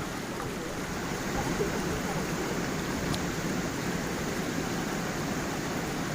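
Water of a gentle stream flowing and splashing over a small waterfall, a steady rushing with a low gurgle.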